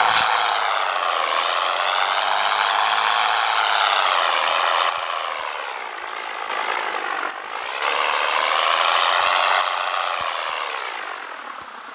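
Scania 113 truck's diesel engine running under load, its pitch rising and falling several times as it revs, with a brief dip about seven seconds in and a fade near the end.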